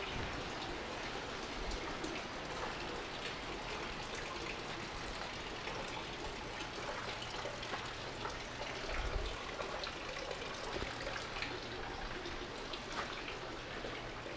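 Steady rush and splash of falling water from the Bear Run waterfall and stream, with constant small crackles and patters.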